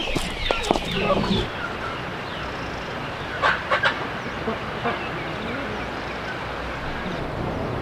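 Chickens clucking on a farm, with a few sharp clicks or taps in the first second and a half and a short cluster of louder clicks about three and a half seconds in.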